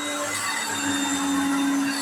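Hoover Concept One upright vacuum cleaner running steadily: a constant motor hum under a wide airflow hiss.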